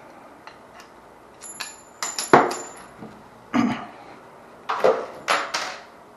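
Metal parts and tools clattering and scraping while work is done on a water heater's wiring, in three bursts of knocks, the first with a brief high metallic ring.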